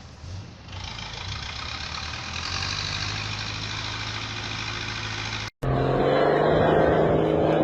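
Vehicle engine running and growing louder from about a second in. About five and a half seconds in it cuts off abruptly, and after a brief gap a louder, different engine sound takes over.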